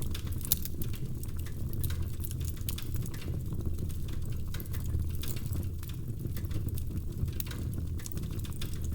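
Wood fire in a fireplace crackling: irregular small sharp pops and snaps of burning logs over a steady low rushing of the flames.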